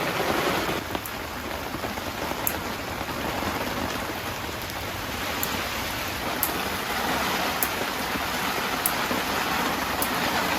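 Heavy rain pouring steadily onto the tent, with a few sharp ticks of single drops scattered through it.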